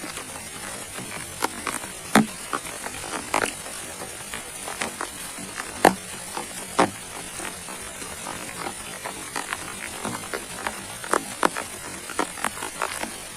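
Rain, with large drops landing close by as irregular sharp taps, several a second, over a steady high hiss.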